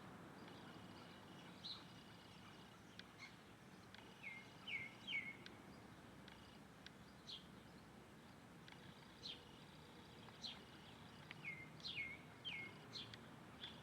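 Small birds giving short, scattered chirps that drop in pitch, some in quick runs of three, over a faint steady background.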